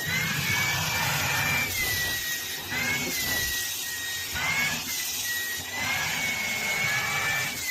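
A motor-driven appliance running: a steady rushing hiss with a high whine that drifts up and down in pitch.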